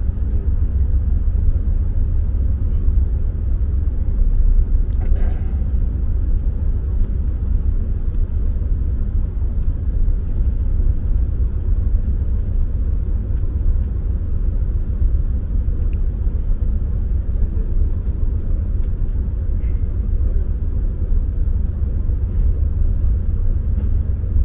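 Steady low rumble of a VIA Rail passenger train running along the track, heard from inside the coach. A brief hiss comes about five seconds in.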